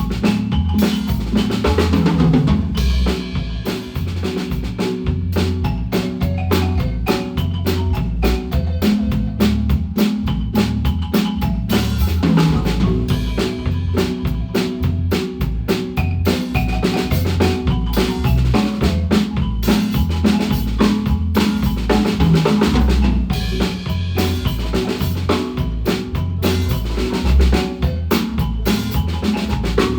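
Guatemalan marimba music played with a drum kit: busy snare, rimshot and bass-drum strokes under struck marimba notes, over a moving low bass line, keeping a steady rhythm throughout.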